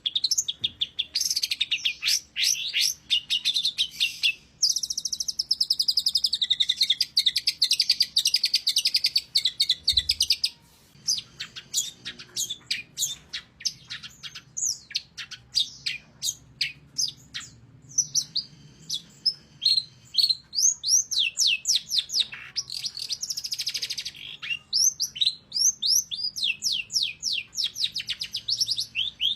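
Long-tailed shrike (pentet) singing persistently: fast chattering trills and runs of sharp, high repeated notes, broken by short pauses about four and ten seconds in.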